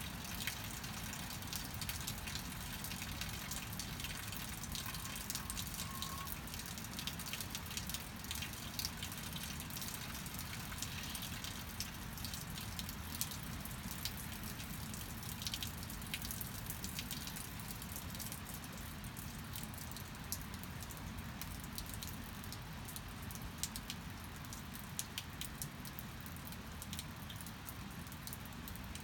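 Steady rain falling, with many separate drops ticking sharply over the continuous hiss.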